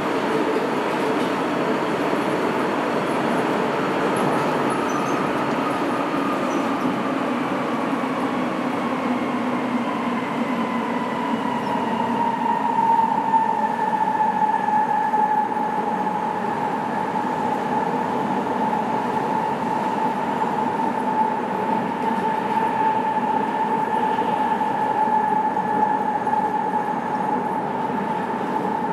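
Sapporo Municipal Subway Namboku Line 5000 series rubber-tyred train running between stations, heard from inside the car: a steady rolling rumble with a whine that falls in pitch over about the first twelve seconds and then holds steady.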